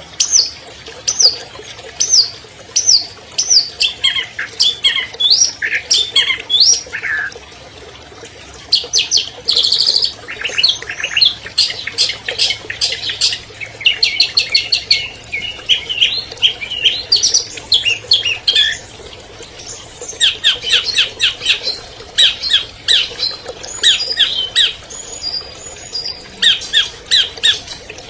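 Albino long-tailed shrike (cendet) singing a varied song full of mimicked phrases. It delivers quick series of sharp, high, gliding notes and fast chattering trills in bursts. There is a short pause a little past the middle.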